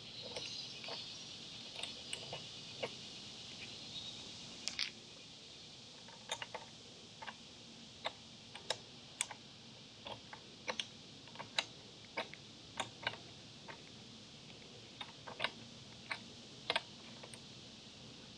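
Irregular sharp clicks and taps, one every second or less, from tool work on a motorcycle's rear-axle chain adjusters during chain-slack adjustment.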